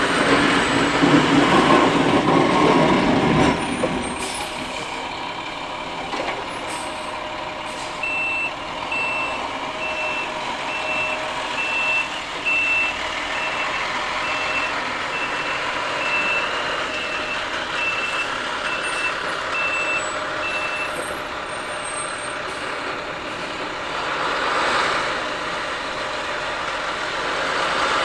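Dump plow truck's reversing alarm beeping about once a second for some thirteen seconds over the truck's running engine. The engine noise is loudest in the first few seconds.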